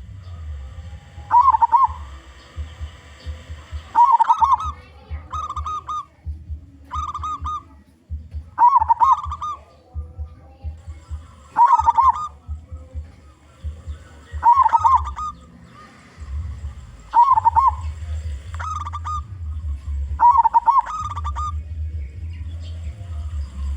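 Zebra dove (perkutut) cooing over and over, a short trilled phrase every one to three seconds, with a steady low rumble underneath.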